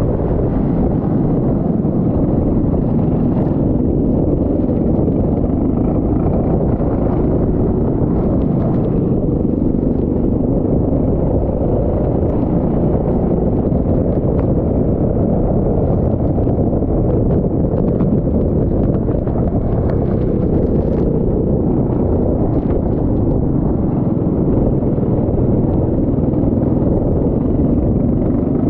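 Go-kart engine running at racing speed under a steady, loud rumble of wind buffeting the microphone.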